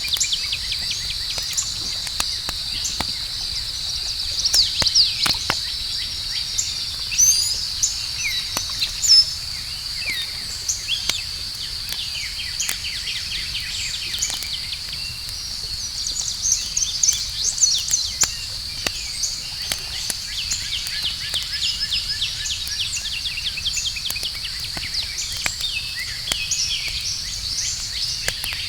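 Campfire crackling in short sharp pops over a steady high insect chorus, with birds chirping in quick sweeping calls, loudest in bunches about four to nine seconds in and again around sixteen to eighteen seconds.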